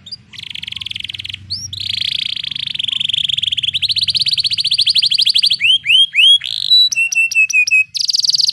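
Domestic canary singing long rolling trills: fast, rapidly repeated notes held for a second or more at a time, the longest in the middle. Near the end it switches to a few rising slurred whistles and a quick run of short falling notes.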